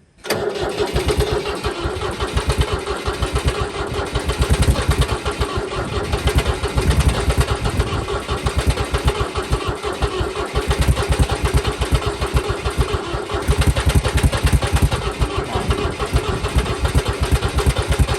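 Kubota L245DT diesel tractor engine on a cold start attempt, cranking and running with a fast, uneven pulsing. The engine starts hard because, by the owner's guess, only one glow plug works. The sound begins suddenly and cuts off near the end.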